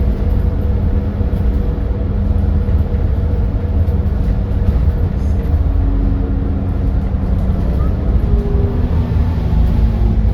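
Edison Motors Smart 110G CNG city bus running with its GX12P natural-gas engine: a steady, loud low rumble with a constant hum, whose pitch rises slightly near the end.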